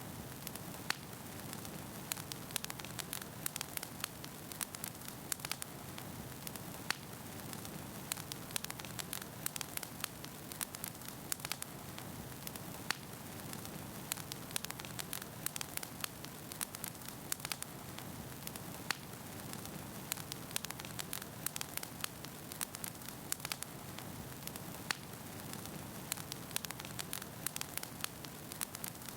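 Wood fire burning in a fireplace, with a steady low rushing and frequent irregular sharp crackles and pops from the burning logs.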